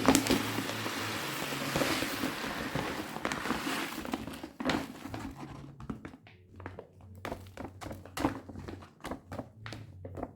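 Household handling sounds: a steady hiss with a low hum under it for about five seconds, then a run of light clicks and knocks of objects being handled.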